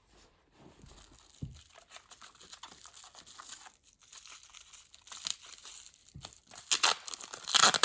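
Packaging wrap crinkling and rustling as a wrapped cordless phone part is handled and unwrapped, louder near the end.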